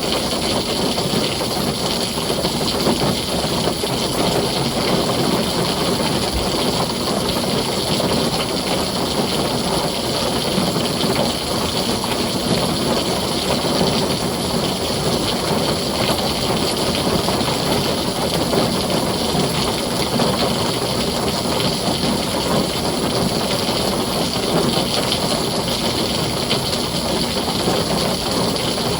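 Heavy rain falling steadily on a tin roof, an even, dense hiss with no distinct thunderclap.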